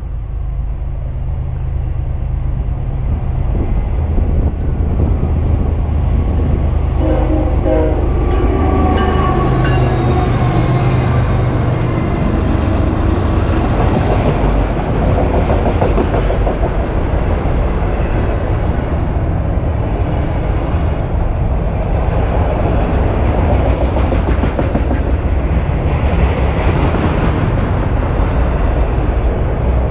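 BNSF freight train passing close by: a low diesel locomotive rumble builds, a horn sounds briefly about seven seconds in, then the steady rumble and clatter of autorack cars' wheels on the rails.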